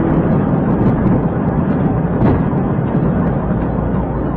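Steady, loud rumbling roar of a vehicle in motion.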